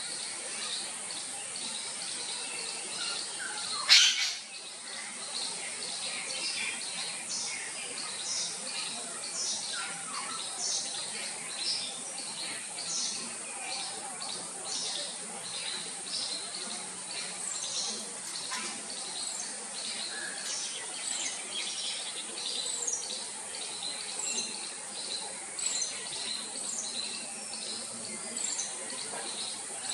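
Small birds chirping in short, irregular high notes over a steady high-pitched insect drone, with one brief loud sweeping sound about four seconds in.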